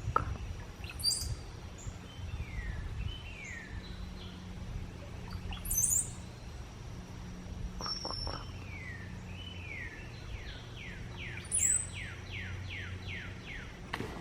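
Cowbird singing: a series of falling whistled notes with a watery, gurgling quality, a quick run of about ten down-slurred notes near the end, and a few short very high squeaks between them. A steady low hum sits underneath.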